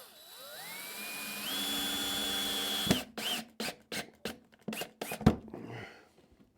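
Power drill driving a screw: the motor spins up with a rising whine, runs steadily for about three seconds and stops abruptly, followed by a few seconds of irregular clicks and knocks.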